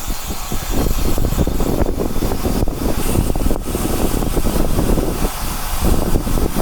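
Steady wind rush and road noise from riding a bicycle, heavy in the low end and fluctuating throughout.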